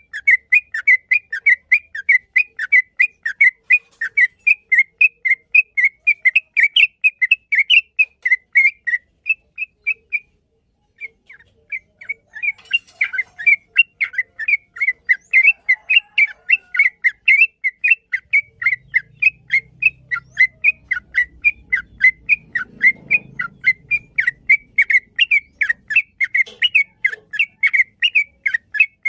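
Yellow-vented bulbul (trucukan) singing a long, rapid run of short, sharp chirping notes, about four or five a second, breaking off briefly around ten seconds in. A faint low rumble sits underneath in the second half.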